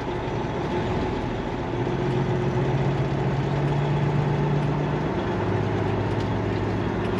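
Semi truck's diesel engine running steadily at low speed, its note dropping a little about five seconds in.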